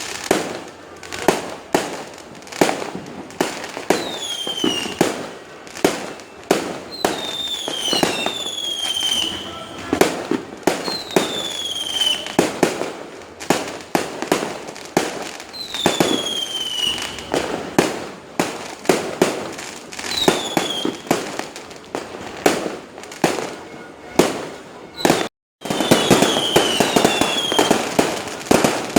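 Fireworks going off: repeated sharp bangs, mixed with several high whistles that fall in pitch. After a short break near the end, the bangs come thicker and faster.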